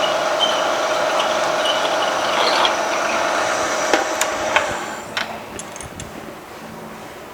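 Milling machine spindle running with a steady whine while a drill bit bores into the hard steel of a crankshaft counterweight. About four seconds in a few sharp clicks and knocks sound and the machine's running dies away.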